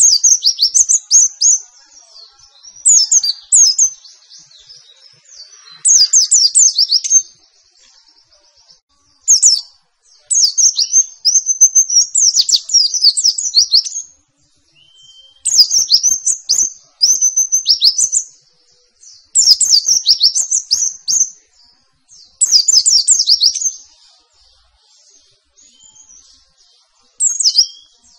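White-eye (pleci) singing its fast 'nembak' song: bursts of rapid, high twittering notes a second or two long, with short pauses between, about nine phrases in all.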